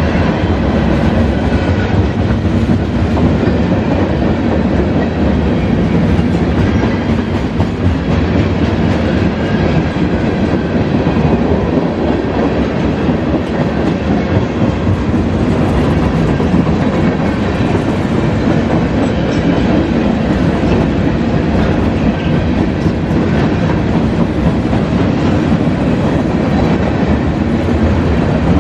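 CSX freight train cars rolling past, a loud steady rumble and clatter of steel wheels on the rails.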